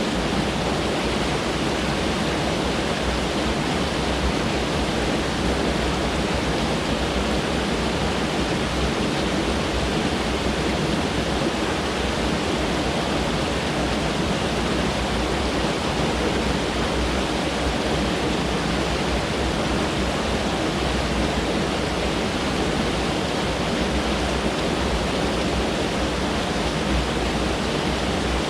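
A mountain stream rushing steadily over rocks, a constant even rush of water.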